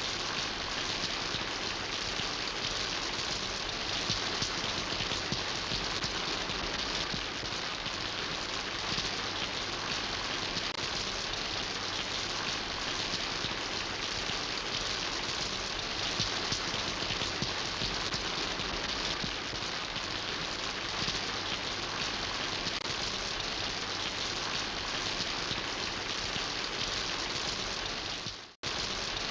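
Steady rain falling, an even hiss of drops pattering on surfaces. The sound cuts out completely for an instant near the end, then comes straight back.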